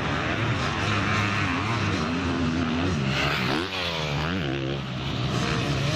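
Several motocross bike engines running hard and revving, their pitches rising and falling with throttle and gear changes; one engine's pitch drops and climbs sharply about halfway through.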